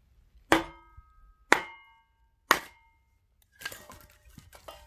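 Three hard strikes of an axe splitting firewood, about a second apart, each a sharp crack with a short metallic ring. A spell of lighter knocking and scraping follows near the end.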